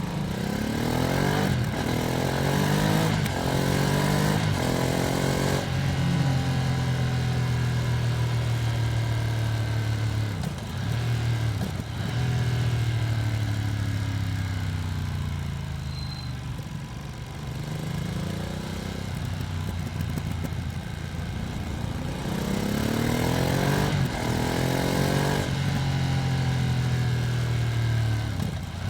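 Ducati Streetfighter V2S's V-twin engine heard from onboard while riding. It revs up through several quick upshifts at the start, holds a steady pull, and drops away through the middle as the rider rolls off. Then it revs up through the gears again.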